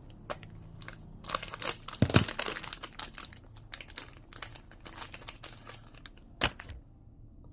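Plastic popsicle wrapper crinkling and tearing as it is pulled open, with a dull knock about two seconds in; the rustling stops shortly before the end.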